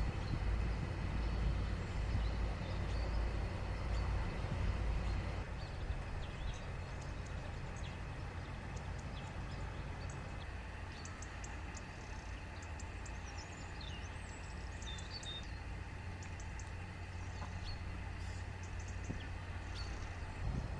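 Outdoor ambience: a steady low rumble with faint, scattered bird chirps that come in mostly in the second half.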